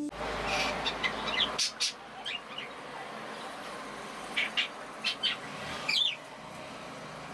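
Small birds chirping in short, quick calls, several clusters of them through the first six seconds, over a steady faint background hiss.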